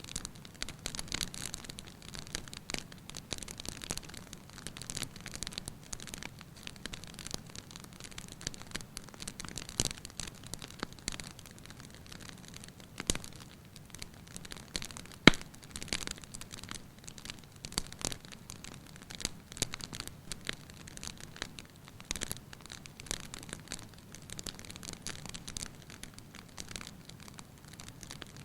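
Wood fire burning in a fireplace, crackling with frequent irregular small snaps and one sharp, louder pop about fifteen seconds in.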